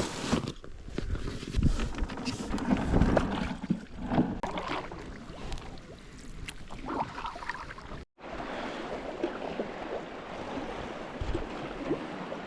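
Canoe on a river: water splashing and rushing around the hull with uneven paddle strokes. A sudden break about eight seconds in, after which the water noise is steadier.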